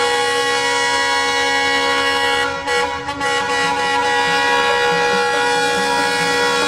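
Train air horn sounding one long, steady blast of about seven seconds that wavers briefly about two and a half seconds in.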